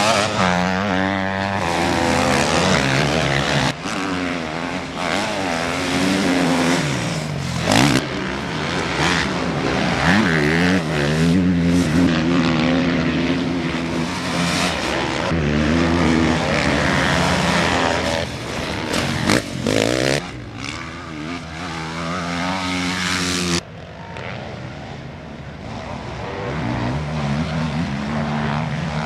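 Motocross motorcycle engines racing, several at once, revving up and down as they accelerate and shift. The sound drops abruptly about three-quarters of the way through, then builds again.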